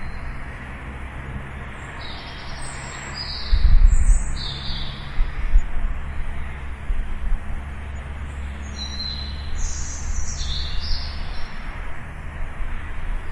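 Songbirds chirping in repeated short, high phrases over a steady low rumble of outdoor background noise, which swells suddenly about three and a half seconds in and stays louder.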